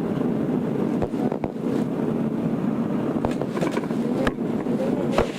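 Inside a Tokyo Metro 02 series subway car: a steady low rumble of the train with several sharp knocks scattered through it.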